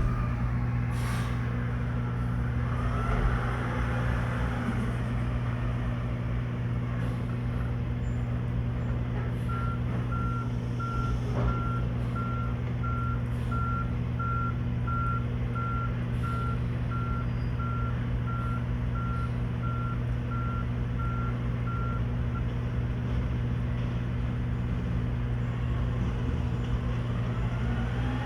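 Garbage truck's engine running steadily, with its reversing alarm beeping in an even series for about thirteen seconds through the middle, and a few sharp knocks.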